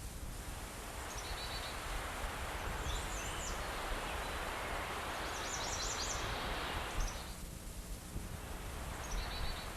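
Quiet outdoor ambience: a steady hiss of background noise with short bursts of high bird chirps every couple of seconds.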